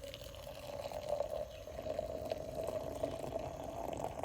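Hot water being poured for coffee, a steady liquid stream whose pitch rises slightly as the vessel fills.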